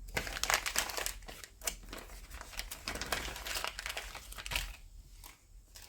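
A small plastic parts bag crinkling and rustling in the hands as it is handled and opened, an irregular crackle.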